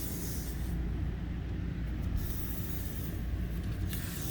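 A steady low motor hum, with short hissing bursts about every second.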